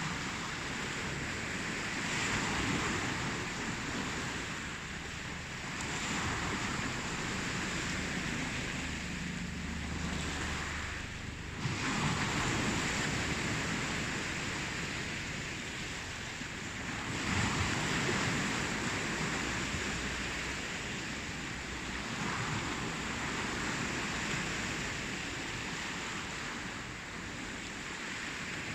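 Ocean surf: waves breaking and washing ashore, swelling and easing every few seconds, with a sharper surge of a breaking wave near the middle.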